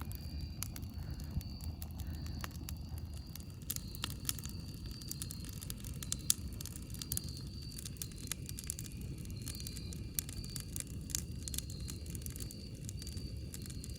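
Wood campfire crackling: irregular sharp snaps and pops over a steady low rumble of the burning fire, with one louder pop about six seconds in. A faint high-pitched chirp repeats evenly in the background.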